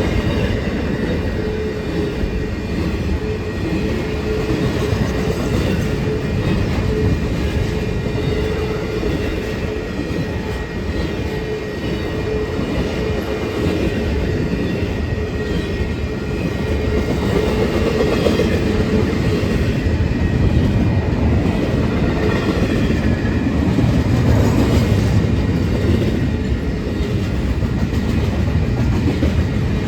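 Union Pacific intermodal freight train's cars rolling past over the rails, a continuous rumble with wheels clicking over rail joints and a steady ringing tone.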